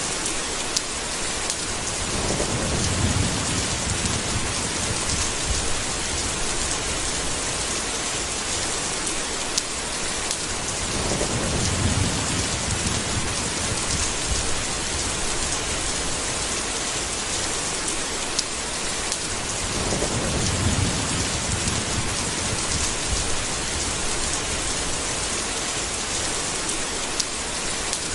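Steady heavy rain hissing, with low rolling thunder rumbling up three times, roughly every eight to nine seconds, each roll lasting a few seconds. A few sharp drip ticks stand out over the rain.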